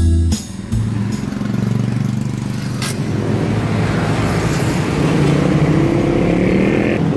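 Road vehicle engine running at a roadside amid traffic noise, its note rising a little in the second half; a single sharp knock about three seconds in.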